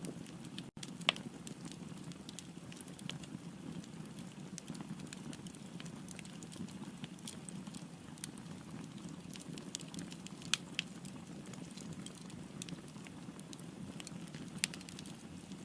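Wood fire burning with a steady low rustle and scattered sharp crackles and pops; the loudest snaps come about a second in, twice around ten and a half seconds, and near the end. A split-second dropout in the sound comes just before the first loud snap.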